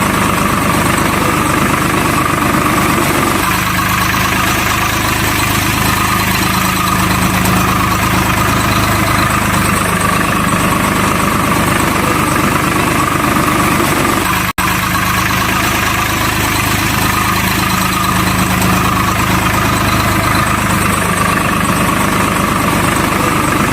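A truck engine idling steadily, broken by a momentary cut about fourteen and a half seconds in.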